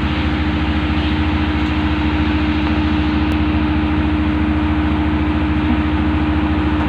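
A ship's engine running steadily: a loud, constant hum with a fast low throb underneath.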